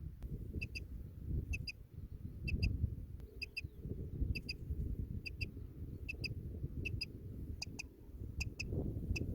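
Common quail call: short double notes repeating evenly about once a second, over a steady low rumble of wind on the microphone.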